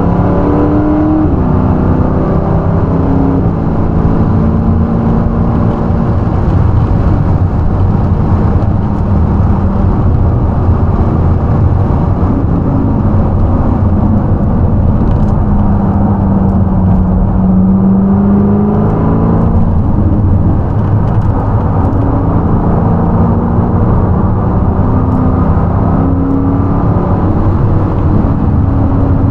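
High-performance car's V8 engine running hard on a race circuit, its note rising and falling with the throttle over a constant heavy rumble of road and wind noise.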